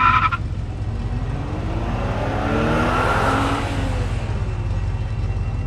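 Car engine sound effect. A short, sharp, pitched blast at the start is followed by the engine running and revving, its pitch and loudness rising to a peak near the middle and then falling away.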